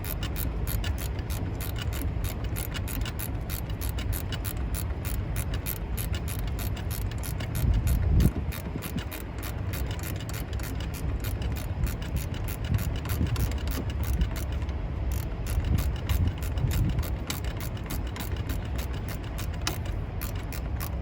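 Ratchet wrench clicking rapidly and steadily as bolts are tightened down, with a louder knock about eight seconds in.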